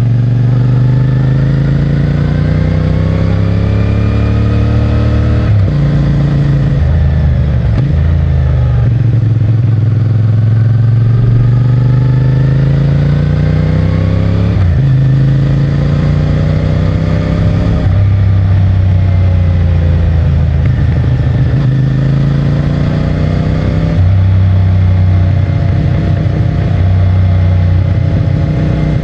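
CFMOTO 450MT motorcycle's parallel-twin engine under way on its stock exhaust, heard from the rider's pocket. Its pitch climbs steadily as the bike pulls, then drops suddenly about three times as gears are changed.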